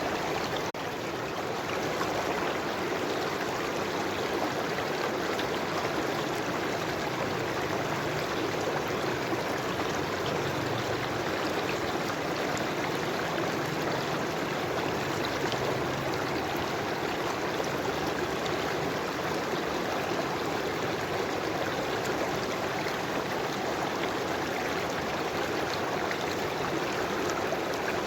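River water flowing: a steady, even rush of running water, with a brief dip in level just under a second in.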